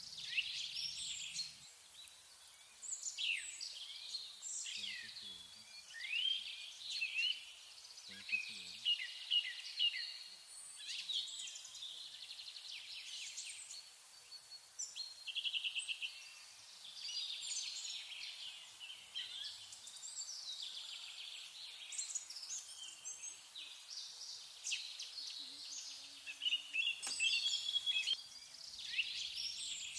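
Songbirds singing and chirping almost without pause, many quick high notes sweeping up and down and overlapping, as from several birds at once.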